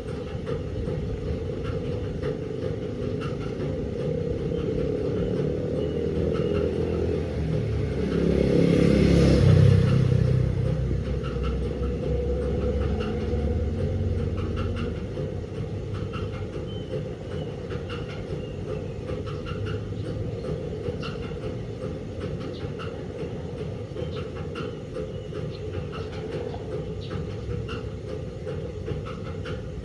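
Delta 16 kg washing machine running with a steady mechanical rumble. The rumble swells to its loudest and highest about eight to eleven seconds in, then settles back to an even level.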